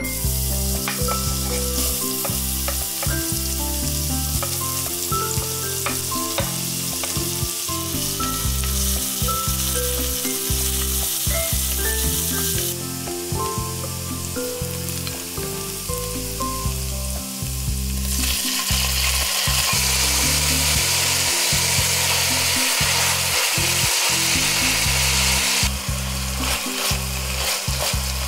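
Garlic and onion sizzling in hot oil while being stirred with a wooden spatula, followed by pieces of chicken and chicken hearts frying. The sizzle is steady, grows louder about two-thirds of the way in, and eases slightly near the end.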